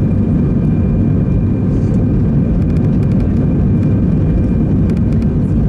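Airbus A320 jet engines at takeoff power, heard from inside the passenger cabin: a loud, steady rumble with a faint high whine and a few light clicks.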